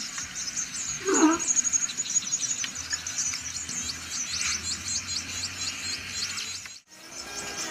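Birds chirping in a dense chorus, many short high calls several a second, with one louder, lower call about a second in; the sound drops out briefly near the end.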